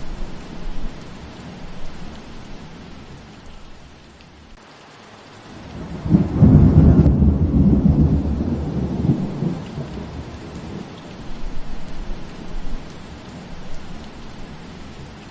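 Steady rain falling on foliage, with a roll of thunder that swells about six seconds in, rumbles loudest for a few seconds and then fades away.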